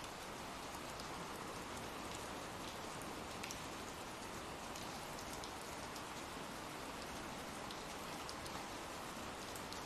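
Steady rain from an ambient rain-sound track: an even hiss of falling rain with scattered faint drop ticks.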